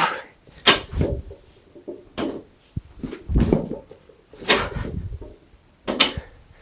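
A lifter breathing hard and forcefully through a set of barbell cleans, about seven loud breaths at uneven spacing, with a short knock about halfway through.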